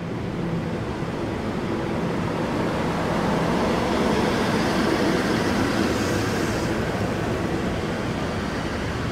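Double-deck electric passenger train moving along the platform, its wheels rolling on the rails with a low hum. The noise builds to its loudest about halfway through and eases slightly as the cars go by.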